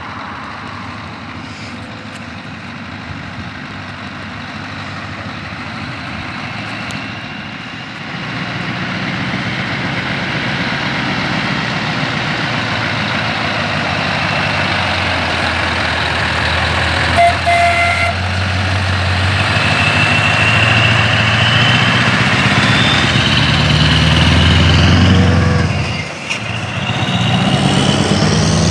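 Scania R500 V8 diesel with an open, straight-through exhaust pipe, running and then pulling harder: the engine note swells about eight seconds in and climbs in pitch. It drops away briefly near the end, then comes back up.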